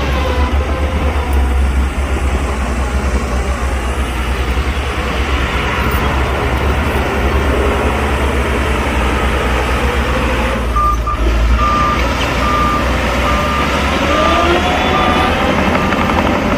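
Heavy diesel construction machinery running steadily, with a reversing alarm starting to beep at an even pace about eleven seconds in as a machine backs up.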